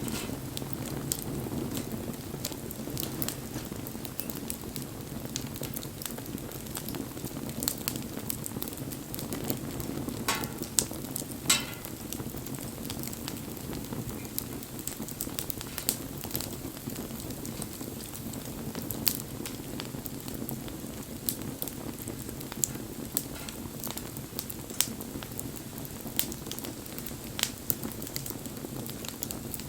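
Wood fire burning, a steady low hiss with scattered crackles and pops throughout; two louder pops come about a second apart near the middle.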